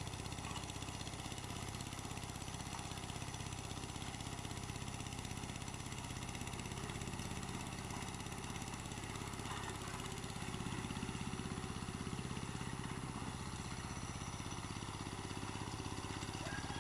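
Farm hand tractor's engine running steadily with a fast, even beat.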